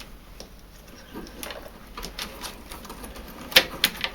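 Sharp plastic clicks and light knocks from handling the wiring connectors and parts of a tumble dryer's condensate pump and float switch. The loudest click comes about three and a half seconds in, with another just after.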